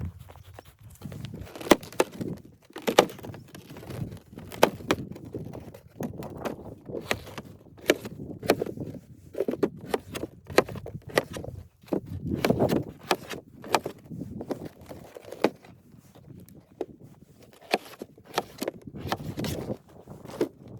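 Irregular sharp knocks and clicks mixed with rustling and soft thuds, as of things being handled and moved about, with no steady rhythm.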